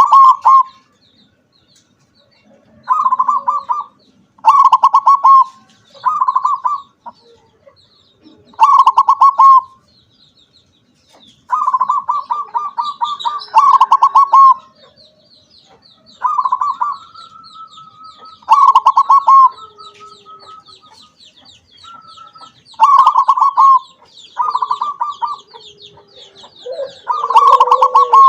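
Zebra dove (perkutut) cooing: about a dozen short phrases of rapid pulsed notes, each at much the same pitch, with pauses between. A fainter high chirping runs under the second half.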